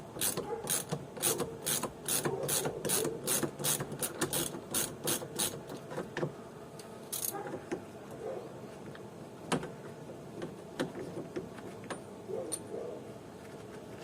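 Ratchet wrench clicking in quick, even strokes, about three a second, as a nut is being undone, then a few scattered clicks after about five seconds.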